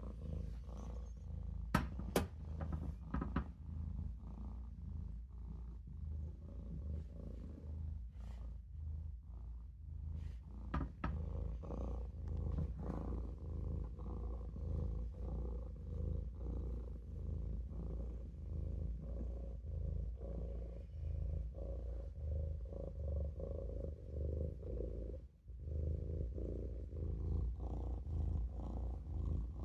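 Maine Coon kitten purring steadily in a rhythmic low rumble, with a couple of sharp clicks about two seconds in and a brief pause in the purring near the end.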